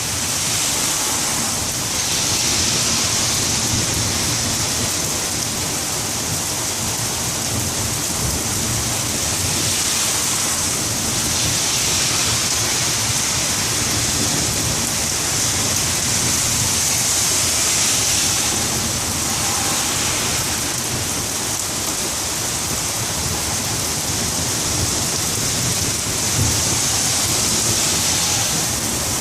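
Heavy rain pouring steadily in a thunderstorm, its hiss swelling and easing every few seconds, over a low rumble of thunder.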